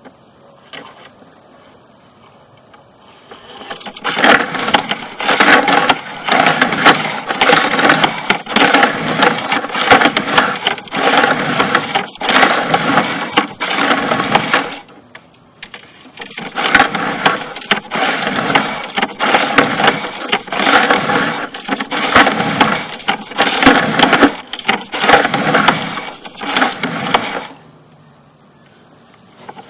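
A sewer inspection camera and its push cable being fed through the sewer pipe, rattling and scraping in two long spells with a short pause between them.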